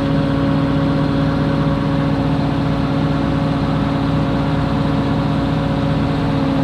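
Combine harvester engine idling steadily with an even, unchanging hum.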